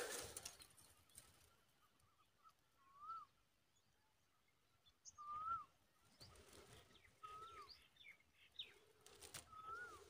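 A bird's short whistled call, one note that rises and then falls, repeated four times about two seconds apart, with brief rustling at the start.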